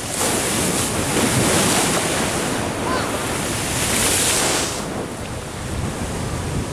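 Ocean surf washing in, with wind rumbling on the microphone. The hissing wash swells near the start and again around four seconds in, then eases.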